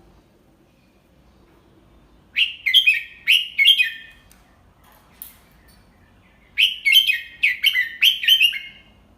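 Red-whiskered bulbul singing two short phrases of quick whistled notes, a few seconds apart.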